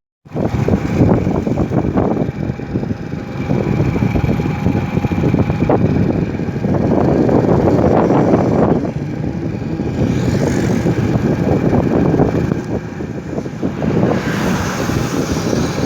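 Motorcycle running on the move, with dense wind rush over the microphone that surges and eases.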